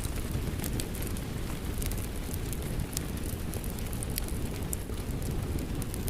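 Steady rain with a crackling wood fire: a constant low rushing noise, overlaid by irregular sharp pops and crackles from the burning logs.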